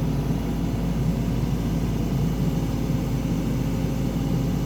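Excavator engine running steadily while digging out a water line.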